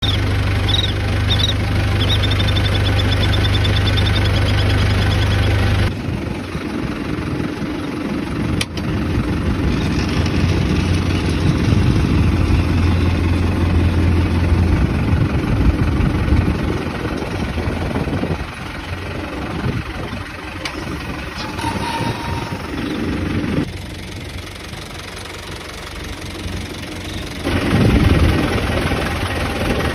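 Engine idling and running steadily, broken by abrupt cuts into several segments. In the first few seconds a bird gives a rapid series of high calls over the engine.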